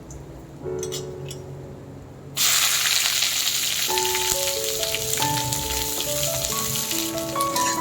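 Food frying in hot oil: a loud, steady sizzle starts suddenly about two and a half seconds in and keeps going.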